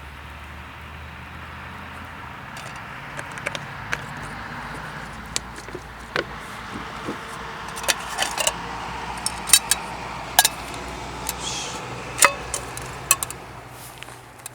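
Irregular light clinks and knocks of objects being handled, more frequent in the second half, over a steady background hiss.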